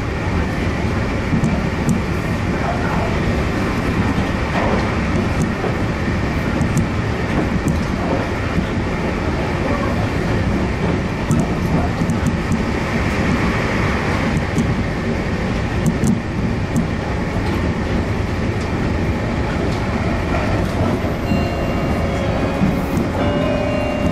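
Running noise of a Meitetsu Nagoya Main Line limited express heard from inside the passenger car: a steady rumble of wheels on rail with scattered light clicks. A few steady tones come in near the end.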